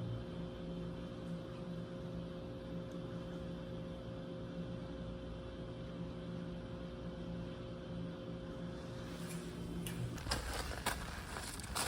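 A steady machine hum with a clear pitch that cuts off about ten seconds in, followed by a few clicks and knocks.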